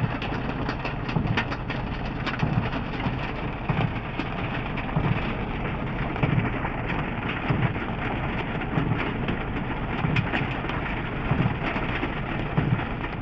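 Hail and heavy rain pelting a stopped car's roof and windscreen, a dense clatter of hard hits over the steady hiss of rain.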